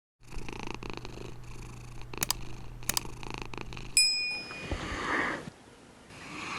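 Domestic cat purring steadily, with a couple of small clicks, then a bright ding that rings on briefly about four seconds in.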